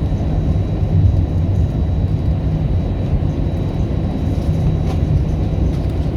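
Steady low rumble inside the cabin of an Airbus A321-200 rolling on the ground just after landing, wheels and engines running.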